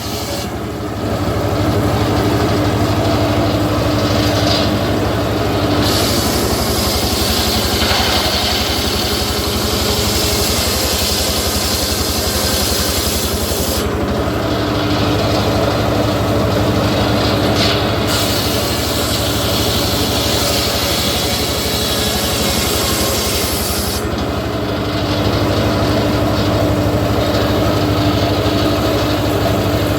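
Homemade engine-driven circular sawmill running steadily while its blade cuts through teak, the cutting noise swelling and easing in stretches of several seconds over a constant engine hum.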